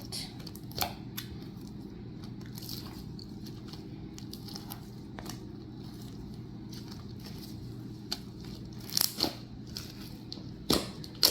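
Hands mixing instant snow powder into sticky slime: scattered small crackles and squishes, with a few sharper crackles near the end as the mixture starts to clump.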